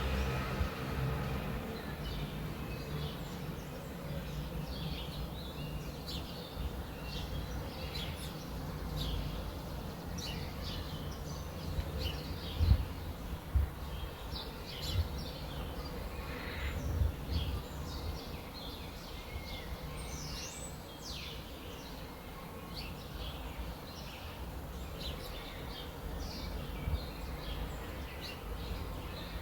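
Small birds chirping and calling in short, scattered notes over a steady low background rumble, with a few low thumps about halfway through.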